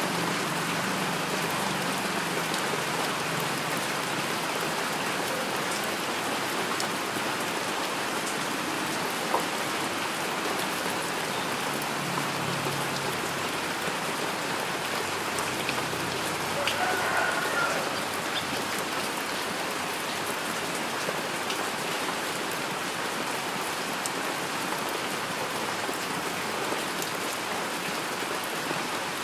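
Heavy rain falling steadily: an even hiss of rain on a surface, with scattered single-drop ticks and one sharper tick about nine seconds in.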